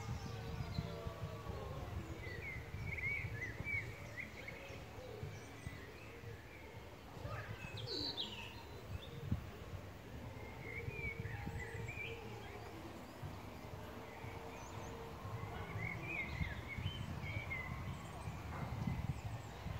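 Outdoor ambience with small birds chirping in short phrases three times, over a steady low rumble.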